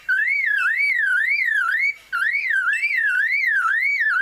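Superb lyrebird mimicking a car alarm: a loud warbling whistle that sweeps up and down about three times a second, in two phrases of about two seconds with a short break between them.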